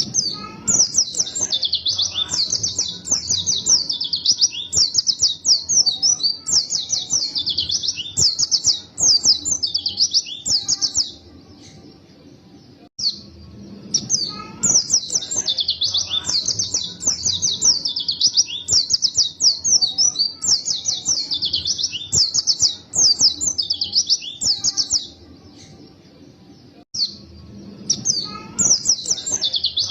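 White-eye (pleci) singing vigorously in long, fast, high-pitched twittering runs, with two short breaks, about a third and two thirds of the way through.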